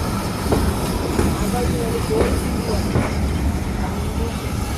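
Swanage Railway steam train rolling in at low speed: a steady low rumble broken by separate clanks of the wheels over rail joints, about one a second.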